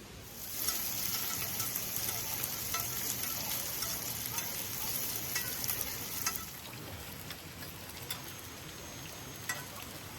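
Meat frying, a loud sizzle with crackling pops. About six seconds in the hiss drops to a quieter sizzle with occasional pops.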